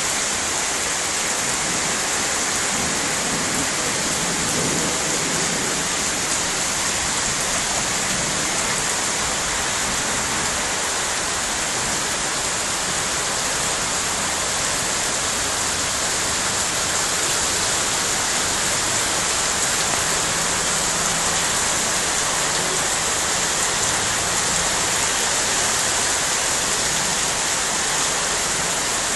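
Heavy rain falling steadily on a flooded courtyard and foliage, with a downpipe pouring runoff onto the pooled water.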